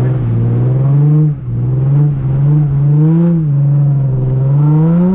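Nissan 350Z's VQ V6 engine running under throttle, its revs rising and falling in short swells, with a brief dip about a second in and a longer climb in revs near the end.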